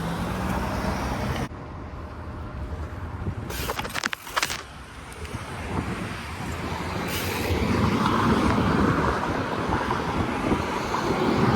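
Rumbling wind and road noise of riding a BMX bike along a street. It drops suddenly about a second and a half in, has a few sharp clicks around four seconds, and builds louder again in the second half.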